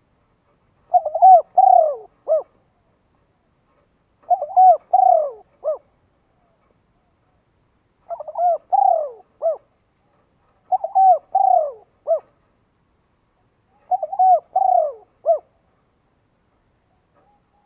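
A bird calling in repeated phrases of several short, arching notes, five phrases about three seconds apart.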